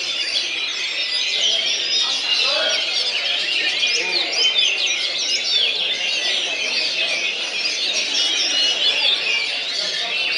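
Many caged songbirds singing at once in a songbird contest, a dense, continuous chorus of overlapping high chirps, whistles and trills, with a low murmur of people's voices underneath.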